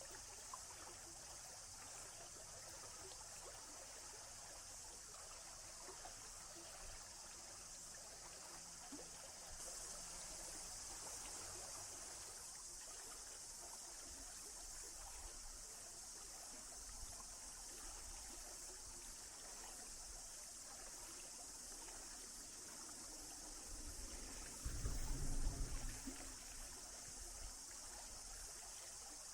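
A small stream flowing and trickling, a faint, steady hiss of water. A brief low rumble comes and goes about 25 seconds in.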